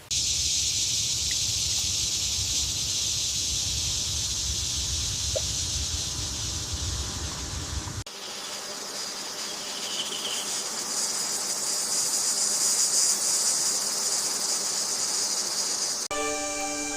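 Steady, high-pitched buzzing of insects, like a chorus of cicadas or crickets, with a low rumble under it for the first half. The sound changes abruptly about halfway through and again near the end, where held musical tones come in.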